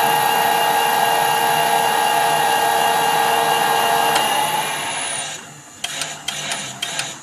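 Metal lathe running under power on an internal thread-cutting pass, a steady machine noise with a whine in it. About five seconds in it runs down and stops, and a series of sharp clicks and knocks follows as the lathe controls are worked.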